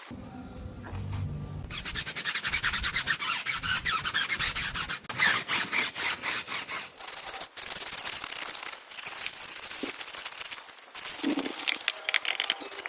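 A brush scrubbing a surface in rapid back-and-forth strokes, with a few short pauses.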